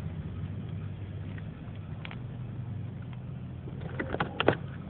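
Steady low background hum. Near the end, a quick cluster of sharp clicks: a lighter being struck to light a campfire.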